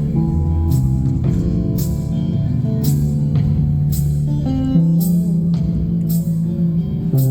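Live rock band playing an instrumental passage between vocal lines: electric guitar and bass over drums, with a drum and cymbal hit about once a second.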